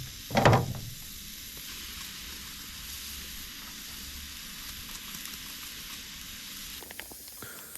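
Steak sizzling steadily in a hot frying pan, with one brief louder stir or scrape about half a second in. The sizzle fades down near the end.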